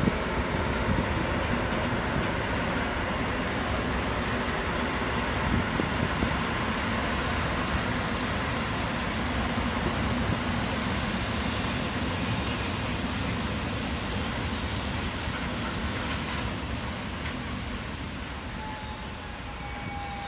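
A train running past on the line: a steady noise of wheels on rail, with a thin high-pitched squeal coming in about halfway through, fading somewhat near the end.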